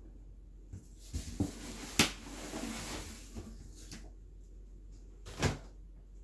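Cardboard boxes of firework cakes being handled and set down: a few sharp knocks, the loudest about two seconds in and another near the end, with cardboard rustling and sliding between them.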